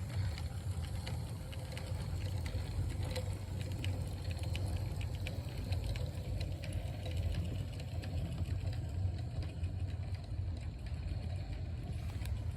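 Bachmann 36-ton Shay model locomotive running on its new diecast power trucks: a steady low motor and gear hum with scattered light clicks over the track.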